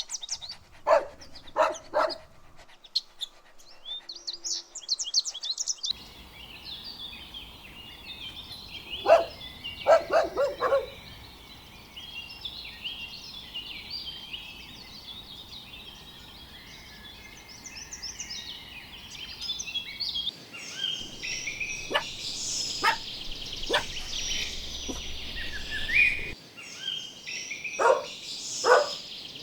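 Dogs barking in several short bursts of two to four barks, over continuous birdsong chirping.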